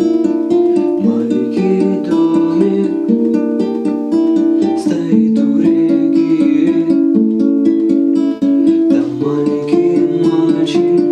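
Acoustic guitar playing an instrumental introduction: a steady run of plucked chord notes ringing over one another.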